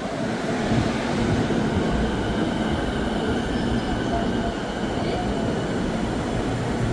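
JR East E233-1000 series electric train pulling into the platform: a steady rumble of wheels and running gear with a faint high whine.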